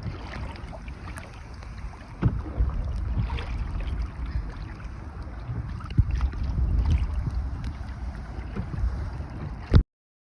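Wind buffeting the microphone while out canoeing on a river, a steady low rumble with occasional paddle splashes and a few sharp knocks. It cuts off suddenly near the end.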